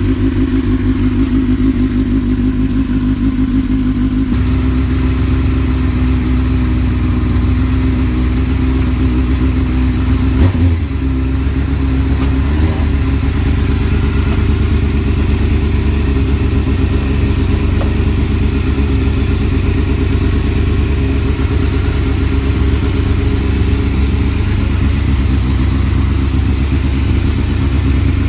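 Motorcycle engine idling steadily, warming up after a cold start that needed a jump starter. Its sound fills out about four seconds in, and there is a brief thump around ten seconds in.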